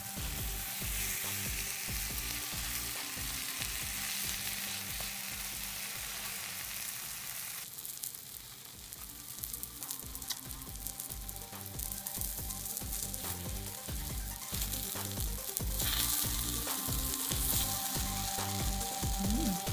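Takoyaki batter sizzling in an oiled takoyaki pan while the balls are turned with skewers. The sizzle is quieter through the middle and comes back stronger near the end, over light background music.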